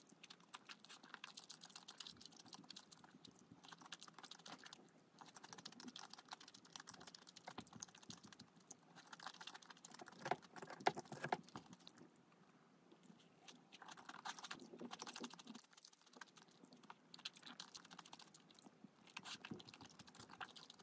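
Faint, irregular clicking and crunching of someone chewing food close to the microphone, with a louder run of bites about ten seconds in.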